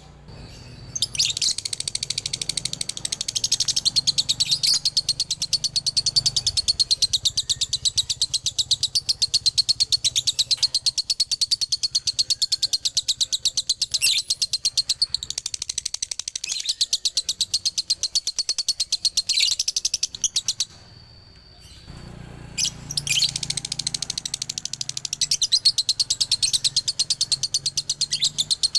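Male lovebird giving its long 'ngekek' song: a rapid, high, unbroken chatter of repeated chirps. The chatter breaks off for about a second and a half about three-quarters of the way through, then starts again.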